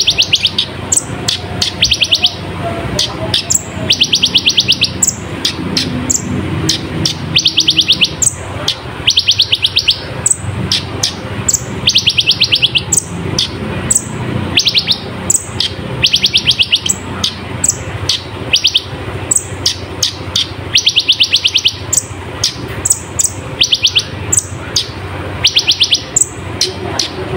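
A kolibri ninja (brown-throated sunbird) singing vigorously: fast, rapid trills of high notes lasting about a second each, repeated every couple of seconds and mixed with short, sharp high chirps.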